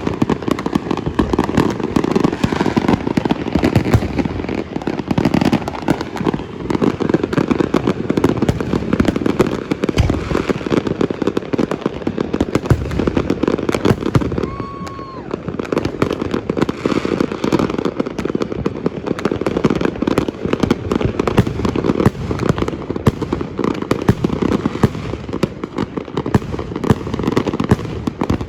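Continuous barrage of fireworks and firecrackers: many overlapping bangs and crackling pops with no let-up.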